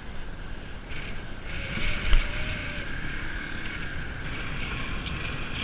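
Bicycles rolling along with wind rumbling on the microphone and a steady hiss of riding noise, with one sharp click about two seconds in.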